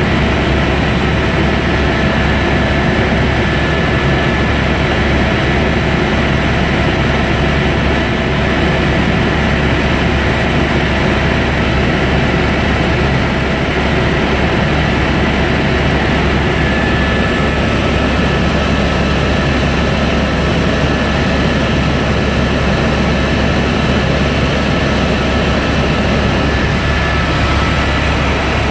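Helicopter noise in flight, heard from inside the cabin: a steady low drone from the engine and rotor, with a few thin, steady high whining tones over it.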